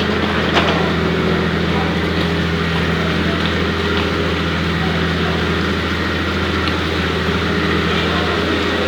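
Steady drone of a passenger ferry's engines heard from on board: a constant low hum under an even rushing noise.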